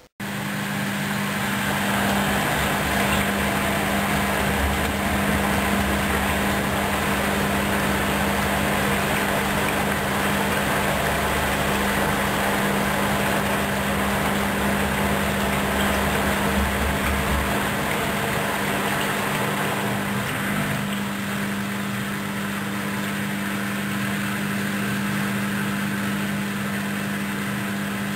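Hoover DYN 10124DP washing machine spinning its drum at speed between rinses: a steady motor hum and whir that starts abruptly, with a deep drum rumble that drops away about two-thirds of the way through.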